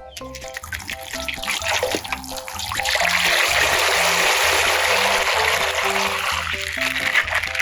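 Water running and splashing, growing louder about two and a half seconds in, over light background music.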